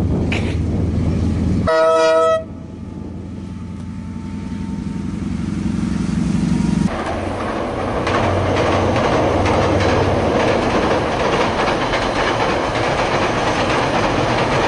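DL class diesel-electric locomotive passing close with a heavy engine rumble, then a short blast of its multi-tone horn about two seconds in. After a cut, a freight train's wagons rumble and clatter steadily across a steel truss bridge.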